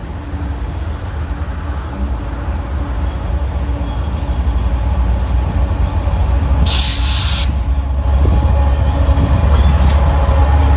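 BNSF freight train approaching, the low rumble of its diesel locomotives growing steadily louder, with a brief burst of hiss about seven seconds in.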